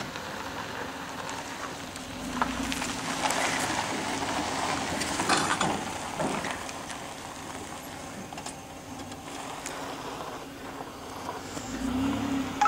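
A vehicle engine running steadily at low speed while the truck is moved slowly, with a louder stretch of rough, scraping noise from about three to six seconds in.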